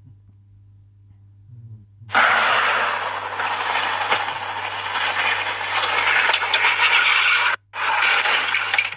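Loud, even rushing noise of a moving vehicle with wind on the microphone, starting abruptly about two seconds in after a faint hum, with a brief dropout shortly before the end.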